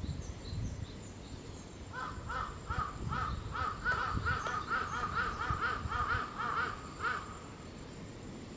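An animal giving a quick run of short, harsh, pitched calls, about three a second, for about five seconds.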